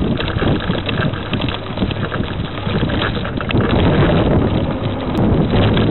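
Wind buffeting the microphone, a loud uneven rumbling noise throughout.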